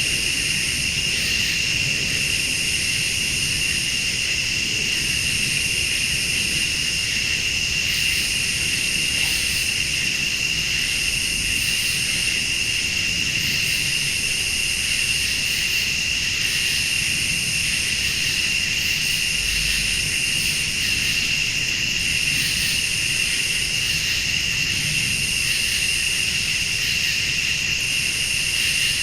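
Night chorus of crickets and other late-summer insects, a steady high trilling. Over it, a higher insect buzz switches on and off every two to three seconds.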